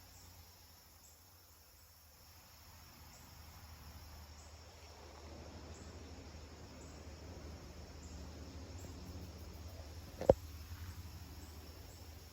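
Crickets chirping faintly in a forest, short high chirps repeating about once a second over a steady low hum. A single sharp click about ten seconds in.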